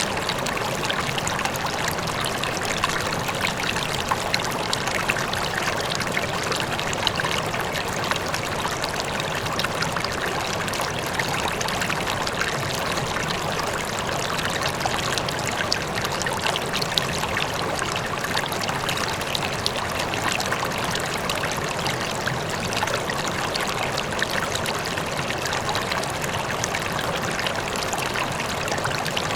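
River water flowing steadily over stones, a continuous rushing and babbling with small splashes, with a distant waterfall blended into the wash.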